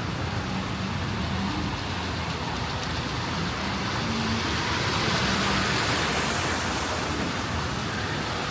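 Traffic on a wet, flooded city street at night: a steady hiss of tyres and water with the low hum of engines, swelling as a vehicle passes about five seconds in.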